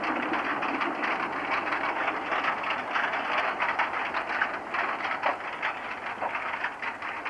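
Narrow-gauge (750 mm) freight train rolling by, its wagons rattling and clanking with many irregular sharp knocks over a steady running noise.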